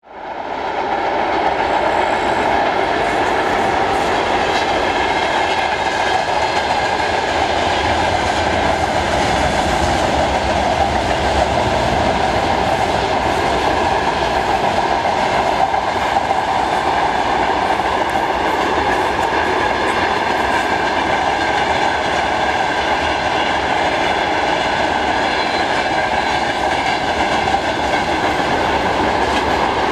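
Freight train of tank cars and boxcars rolling steadily past: continuous noise of wagon wheels running on the rails. It fades up from silence in the first second.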